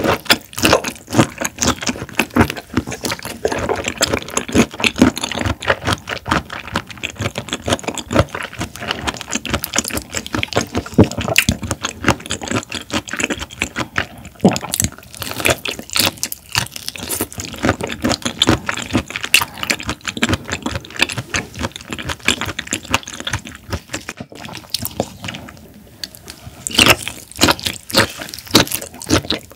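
Wet, close-miked chewing of peeled raw shrimp: a dense, continuous run of small sticky mouth clicks and squelches, with a brief quieter lull a little after the middle.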